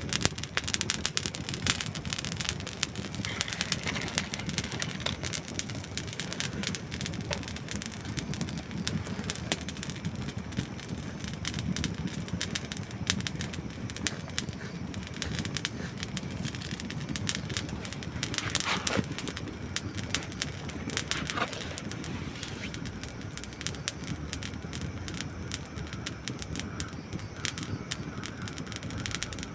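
Wood fire burning, dry logs crackling and popping in a dense, irregular run of sharp snaps over the low steady rush of the flames.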